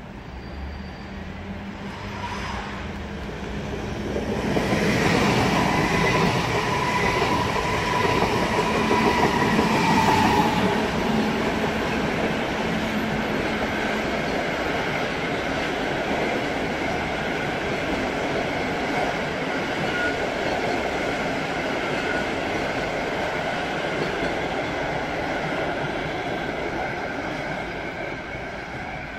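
Electric-locomotive-hauled passenger train rolling past. Its rumble of wheels on rails swells about five seconds in, with a high steady ringing tone over it for several seconds, then settles into an even rolling of the coaches that eases off near the end.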